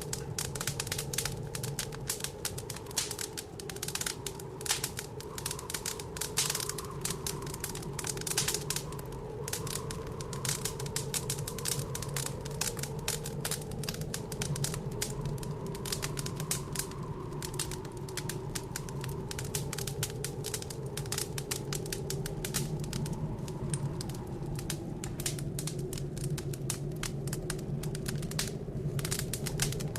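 Wood fire crackling in a fireplace, with dense, irregular pops and snaps. Under it is the steady howl of blizzard wind, its pitch drifting slowly.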